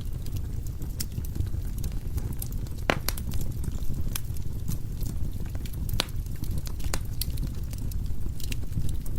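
Firewood burning in a fireplace: a steady low rumble of the flames with irregular sharp crackles and pops from the logs, a louder pop about three seconds in and another about six seconds in.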